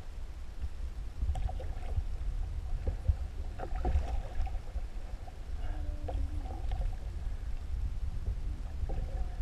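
Canoe under way on a river: paddle strokes and splashes with a few light knocks against the hull, over a steady low rumble.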